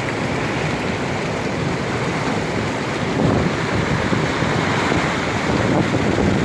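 A vehicle driving through floodwater more than a foot deep, the water rushing and sloshing against its body and underside, swelling slightly about three seconds in.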